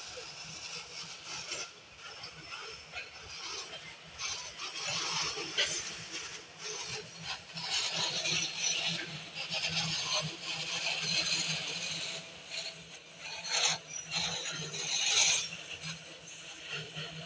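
Freight train wagons rolling past, giving a steady run of irregular metallic clanks and rattles, louder in the middle and again near the end.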